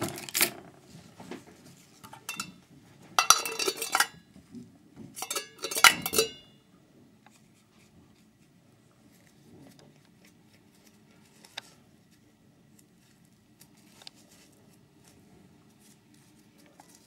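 Thin tin-can metal parts being handled and knocked together, a run of clinks and rattles with brief metallic ringing over the first six seconds or so, then only a few faint taps.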